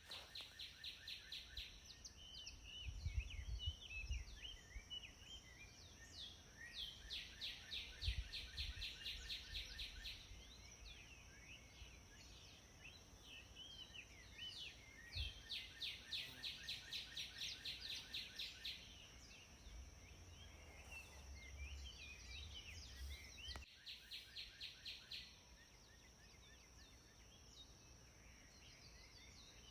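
Several songbirds singing, with fast repeated trills and scattered chirps overlapping throughout, over a steady high whine and occasional low rumbles.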